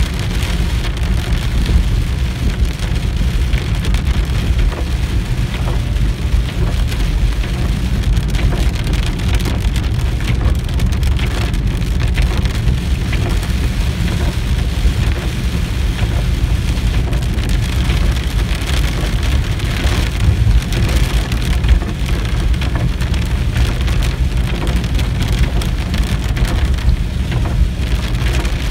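Heavy rain pelting a moving car's roof and windshield, heard from inside the cabin: a dense, steady patter of drops over a constant low rumble.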